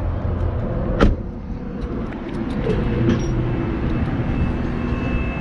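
Dodge Charger R/T's 5.7-litre Hemi V8 idling with a steady low rumble, and one sharp knock about a second in.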